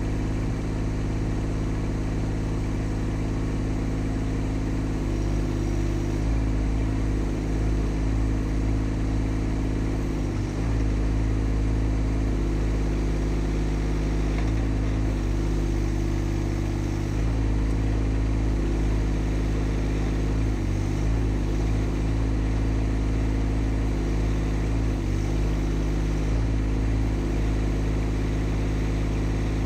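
Mini excavator's engine running steadily at about 2,000 rpm, its pitch wavering slightly now and then.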